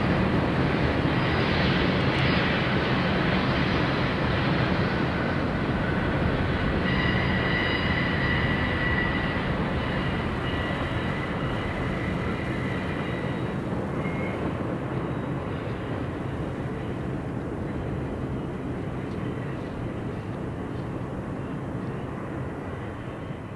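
BNSF freight train rolling past, a steady rumble of wheels on rail that slowly fades. In the middle a high, steady squeal rings over it for several seconds.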